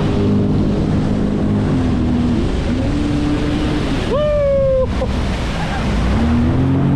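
1990 Kawasaki JS550 stand-up jet ski's two-stroke twin engine running under throttle, its pitch rising and falling, over a rush of water and wind. About four seconds in, it jumps briefly to a higher, cleaner tone for under a second.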